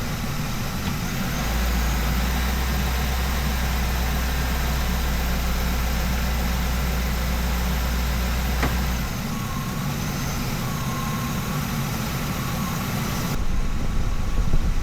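Ambulance engine idling steadily, running on fresh oil just after an engine flush while it is checked for leaks. A deeper hum swells in for several seconds and then falls away, and a single click comes near the middle.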